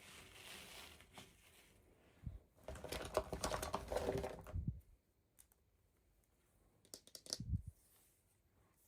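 Toy packaging being handled: a soft rustle, then a dense run of plastic clicks and rattles for about two seconds, and a few more sharp clicks near the end.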